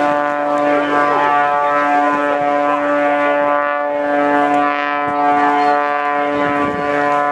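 Aerobatic biplane's piston engine and propeller droning at a steady pitch, a held tone with many overtones.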